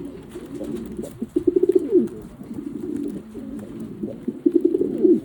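Homing pigeons cooing steadily, with two louder rolling coos, one about a second and a half in and one near the end; the first ends in a falling glide. This is courtship cooing between mating pigeons.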